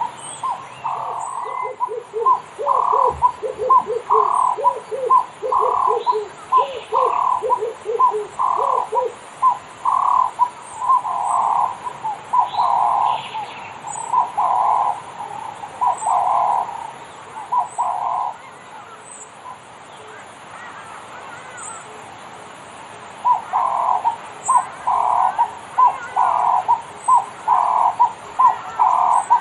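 Birds calling in a long run of repeated short calls, joined for the first several seconds by a second, quicker and lower series of short calls; the calls stop for a few seconds about two-thirds of the way through, then start again.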